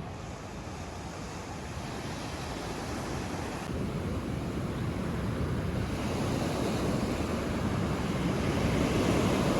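Ocean surf rushing, swelling steadily louder.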